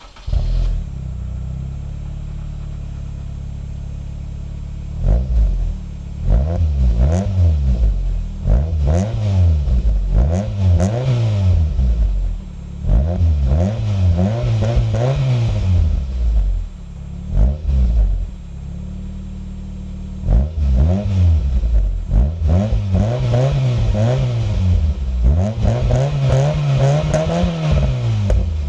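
Nissan Almera N15 1.4-litre four-cylinder petrol engine, exhaling through an aftermarket Magnaflow 14821 muffler, starting from cold right at the beginning and settling into a steady idle. From about five seconds in it is blipped over and over, each rev rising and falling back, with brief returns to idle between bursts.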